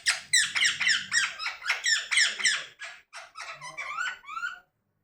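Pet parrot giving a rapid run of shrill, squeaky calls, about four or five a second, growing quieter after about three seconds and stopping shortly before the end.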